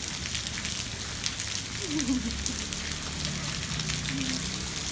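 Steady rain falling, an even hiss with many small drops ticking. A child's voice is heard briefly about two seconds in.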